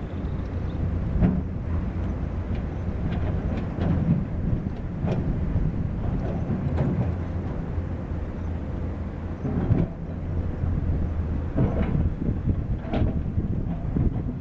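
Diesel engine of heavy construction machinery running steadily with a low hum. Sharp metallic clanks come every second or two.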